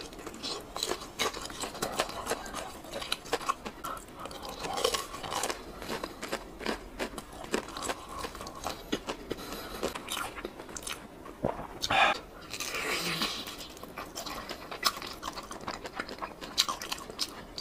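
Close-miked chewing and biting of crispy, chili-coated fried skewers: irregular crunching and wet mouth sounds, with one louder crunch about two-thirds of the way through.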